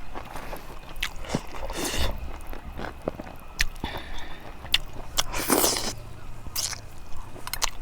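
Close-up eating sounds of a person chewing rice and curry by hand: wet lip smacks, squelches and small clicks, several louder wet smacks, about two seconds in and again about five and a half seconds in.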